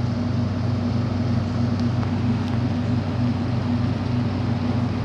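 Steady low mechanical drone of running machinery, a constant hum with a slight even pulsing.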